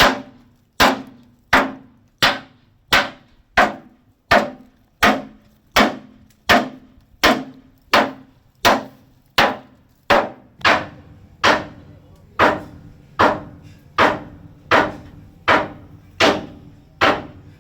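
Steady, evenly paced hammer blows on a ten-wheeler truck's steel chassis frame, about one and a half strikes a second with a short metallic ring after each: hammering the bent frame back into alignment.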